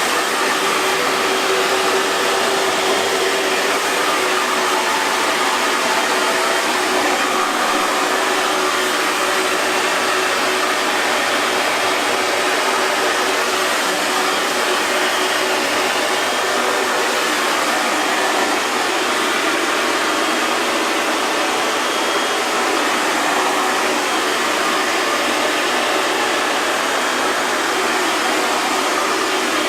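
Hair dryer blowing steadily, a constant rushing whoosh of air with a faint motor hum underneath.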